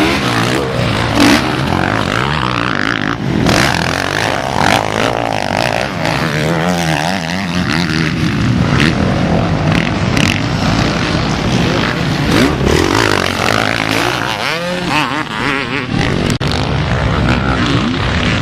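Motocross bike engines racing, several at once, their pitch rising and falling as the riders rev and shift on the track.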